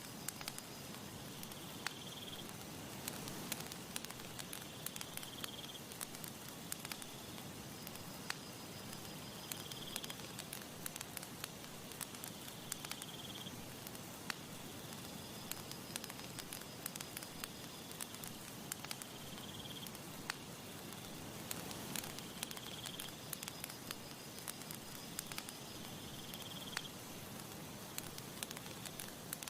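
Campfire crackling and popping in many sharp snaps over a steady hiss. A short high chirp repeats every three to four seconds behind it.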